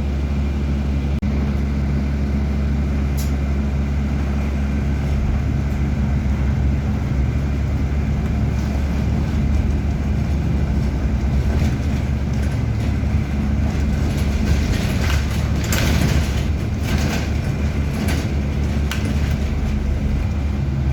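A bus's engine running steadily, heard from inside the bus as it drives, with a low, even hum. A few short knocks or rattles come about three-quarters of the way through.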